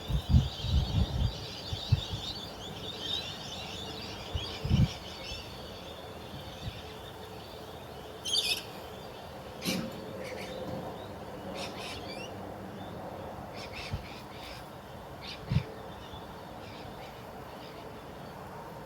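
Birds chirping, most busily in the first few seconds, with a few low thumps and scattered sharp clicks.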